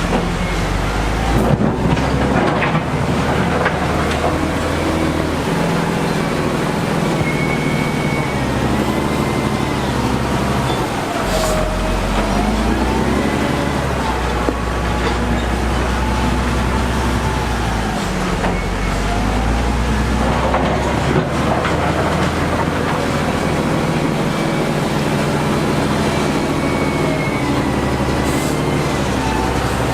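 Heavy diesel construction machinery running steadily: a low engine drone that rises and falls in load every few seconds, with a higher wavering whine that comes and goes.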